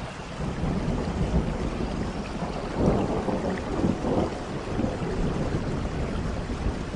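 Steady rain with a low rolling rumble of thunder that builds at the start and swells about three and four seconds in.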